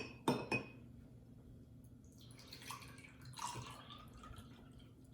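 Water poured into a small glass, splashing for a couple of seconds with a faint rising pitch as the glass fills. A few sharp knocks come just at the start.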